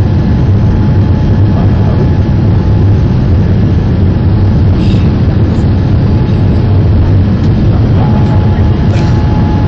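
Boeing 787 Dreamliner jet noise: a loud, steady, low rumble that does not change, with a faint steady whine joining near the end.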